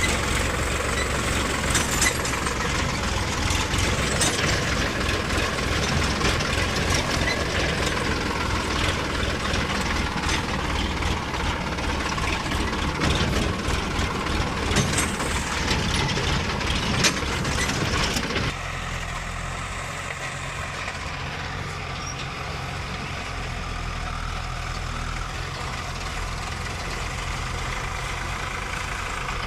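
Heavy diesel engines at work as a JCB backhoe loader loads soil into a tractor trolley, the engine running hard with frequent knocks and clanks. About two-thirds of the way through, the sound changes abruptly to a quieter, steady engine hum.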